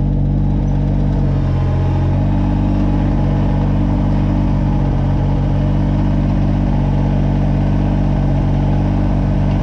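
Kubota BX22 compact tractor's three-cylinder diesel engine running steadily, its note shifting briefly about one and a half seconds in.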